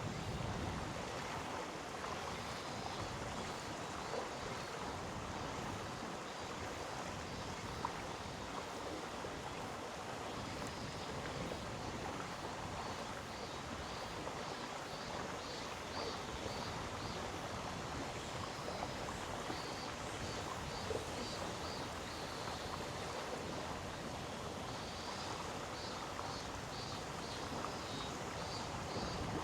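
Mountain stream in a gorge flowing steadily, an even rushing water noise. A faint high pulsing chirp, a few pulses a second, comes and goes: once around the middle and again near the end.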